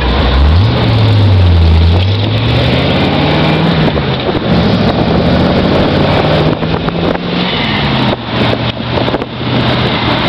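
Open hot rod's engine under way: its pitch climbs twice as it pulls through the gears, holds fairly steady, then drops off about eight seconds in. Wind and road noise rush over it.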